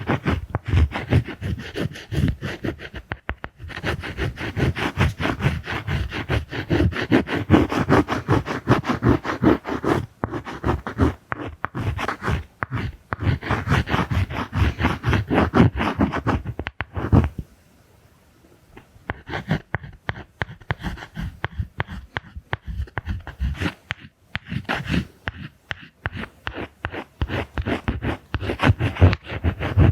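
Close-miked ASMR face-drawing strokes: rapid, dense scratching and scraping, several strokes a second, in layered sound. The strokes pause briefly past the middle, then pick up again more softly.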